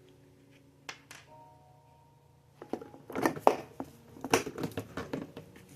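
Plastic parts of a Bissell PowerForce Bagless Turbo 6596 vacuum being handled: a couple of isolated clicks, then from about halfway a rapid, irregular run of clicks and knocks. The motor is not running.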